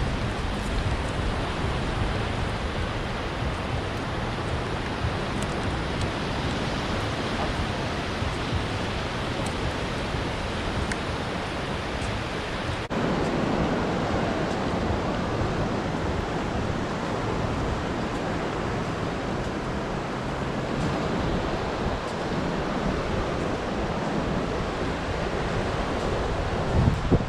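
Steady rushing of sea surf and wind at the shore, with wind buffeting the microphone; the noise shifts abruptly about halfway through and turns deeper.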